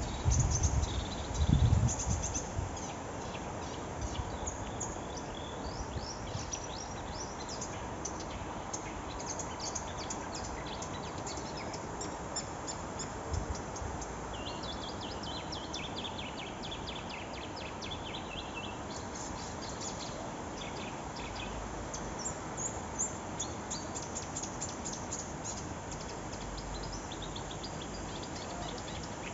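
A small songbird chirping and twittering in quick, repeated high notes throughout, over a steady background hiss. Wind buffets the microphone with loud low rumbles in the first two seconds or so.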